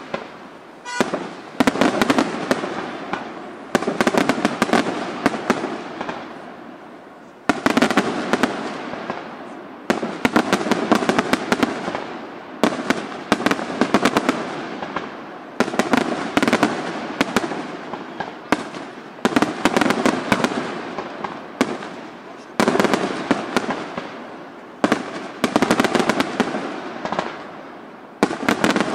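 Aerial firework shells bursting one after another, roughly every two seconds: each sharp bang is followed by a dense crackle that dies away.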